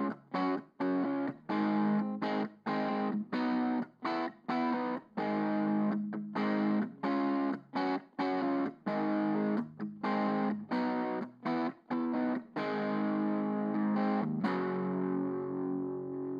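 Overdriven electric guitar, a PRS CE24 through a Seymour Duncan Forza Overdrive pedal into an Orange Micro Terror amp, playing a rhythm riff of short, chopped chords with brief silences between them, letting a chord ring longer near the end.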